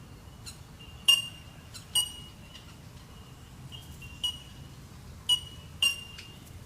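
Bird calls: short, clear, bell-like 'tink' notes repeated irregularly, five loud ones and several fainter ones over a quiet outdoor background.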